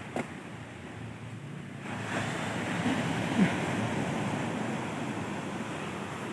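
Sea surf washing ashore with wind buffeting the microphone, the wash swelling louder about two seconds in.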